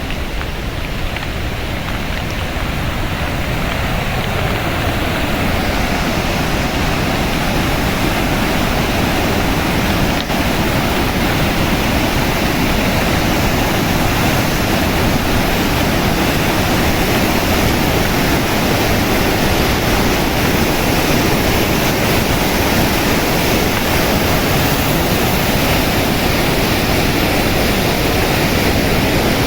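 Steady, loud rush of water, growing brighter about five seconds in.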